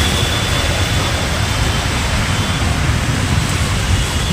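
Heavy rain falling, a steady dense hiss, with a low rumble underneath.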